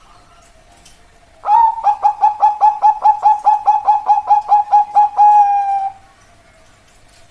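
Zebra dove (perkutut) singing one song: a quick run of about sixteen short notes, roughly four a second, that ends in a longer held note. The song starts about a second and a half in and stops near six seconds.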